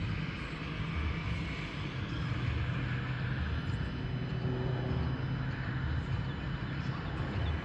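A steady, low engine drone with no change in pitch.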